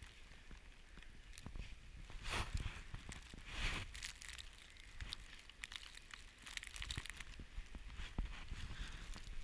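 Blizzard wind gusting against the microphone: irregular bursts of rushing, crackling noise over a steady low rumble, with scattered small clicks.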